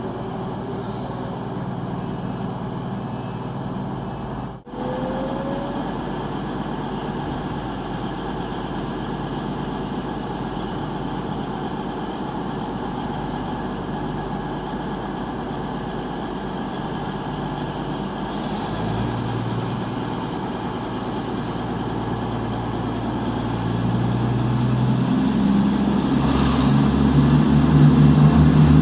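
A steady low engine hum, broken off for an instant about five seconds in, growing louder with stronger low tones over the last few seconds.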